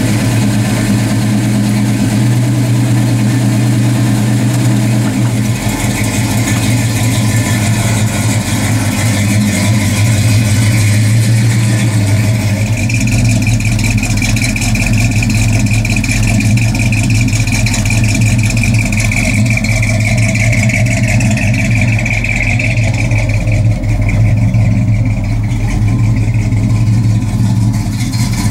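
1966 Dodge Dart GT's engine idling steadily.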